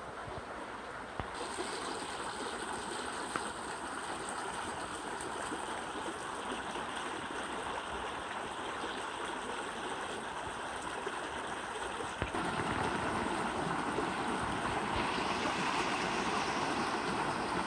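Valley stream water flowing over rocks, a steady rushing that gets louder about twelve seconds in.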